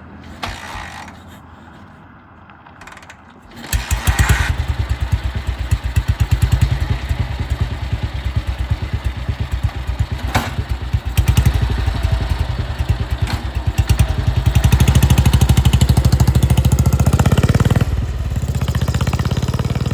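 1942 BSA WM20's side-valve single-cylinder engine, freshly rebuilt, starting up about four seconds in and running with a quick, even, crisp beat as it is ridden, louder for a few seconds near the end before easing off.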